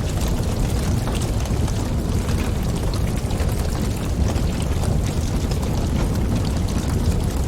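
Wood fire burning in a fireplace: a steady low rumble of flames and wind with frequent small crackles and pops.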